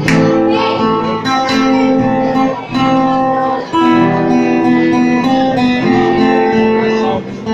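Acoustic guitar playing an instrumental passage of plucked and strummed chords, the chord changing about once a second, with no singing.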